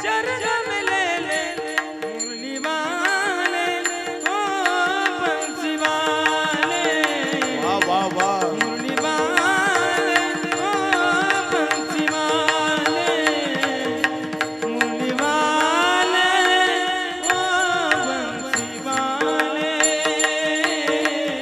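Indian light-classical music: a wordless vocal melody sliding and wavering between notes, over a steady held drone, with light percussion.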